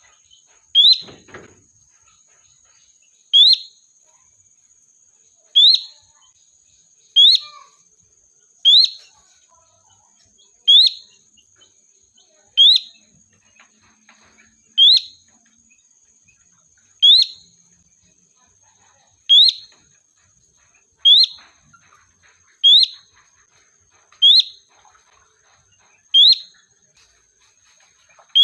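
Sooty-headed bulbul (kutilang) giving one short rising call note over and over, about every one and a half to two seconds. This is the call used as a lure to draw other bulbuls in. A faint steady high whine runs underneath.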